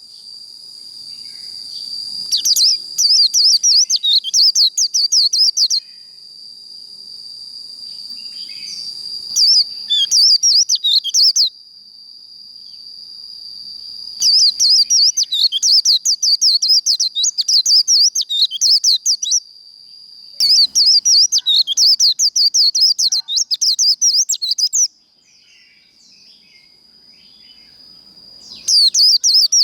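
White-eye (vành khuyên) giving its rapid high twittering 'líu' song in five long bursts of a few seconds each, separated by short pauses, over a steady thin high tone.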